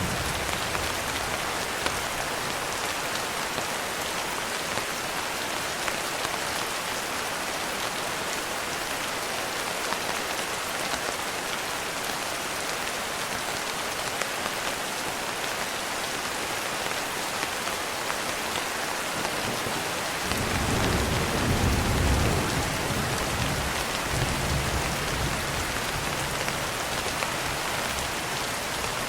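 Steady, heavy rain falling. About two-thirds of the way in, a low roll of thunder rumbles for several seconds, swelling and then fading.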